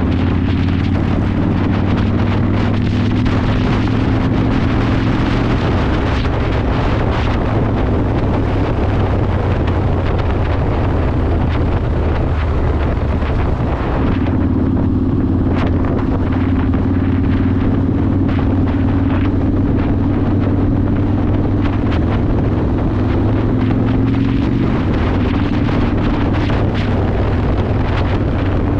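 Yamaha Warrior 1700's air-cooled V-twin running under way through a custom exhaust, with wind buffeting the microphone. The engine note dips and picks up again about halfway through, then climbs a little near the end.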